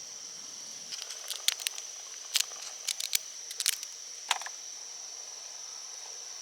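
Crickets chirping steadily, with a handful of short sharp clicks and taps close by between about one and four and a half seconds in.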